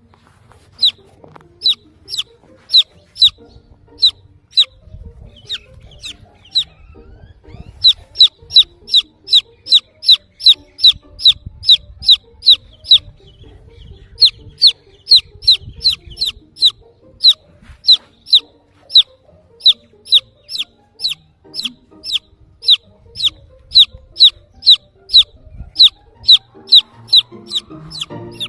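Baby chicken chick peeping loudly: runs of short, high peeps that each slide downward, about two or three a second, with a few brief pauses between runs. Steady peeping like this is the call of a chick looking for the mother hen.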